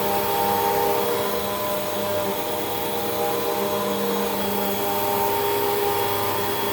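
Hoover WindTunnel 2 Rewind upright vacuum cleaner running steadily, its motor giving a constant whine over the rush of air as it is pushed over carpet.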